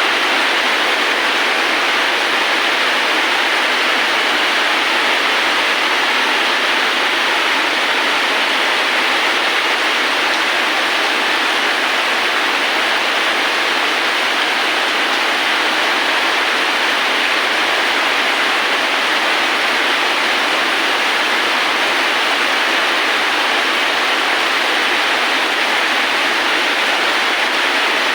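Steady, dense rain noise, an even hiss with no separate drops or changes.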